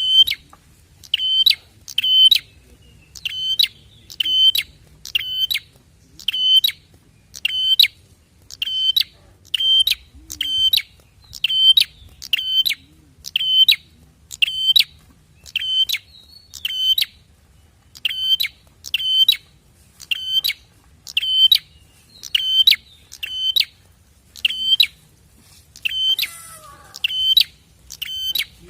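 Prenjak (bar-winged prinia) song: sharp, high, piercing notes repeated at an even pace, often in pairs, about one to two a second. Near the end the notes stop and a softer, lower twittering with falling notes follows.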